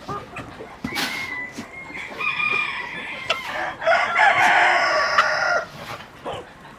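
Rooster crowing once, a long drawn-out crow lasting about three seconds that starts around two seconds in, with hens clucking around it.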